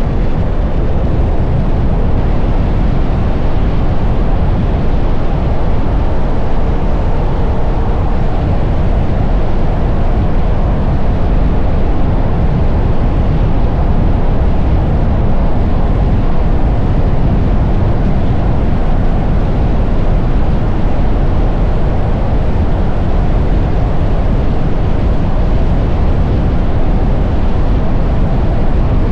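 Steady loud wind rush on the microphone while riding an electric motorcycle at speed, with a faint rising whine in the first second.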